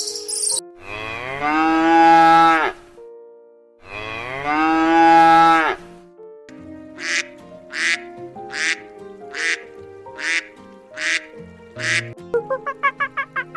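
Two long cow moos, one after the other. These are followed by a run of seven short, evenly spaced duck quacks, and rapid chicken clucking begins near the end. Light background music plays underneath.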